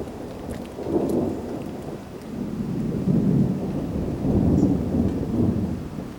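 Thunder rolling in a long low rumble that swells twice and eases off near the end.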